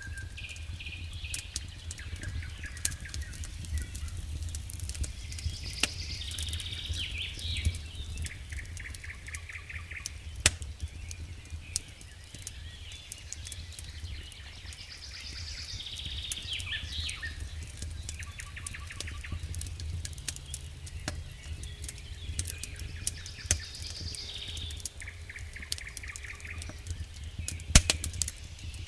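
Campfire crackling with scattered sharp pops, a loud pop near the end, over a low steady rumble, while wild birds sing repeated phrases with rapid trills.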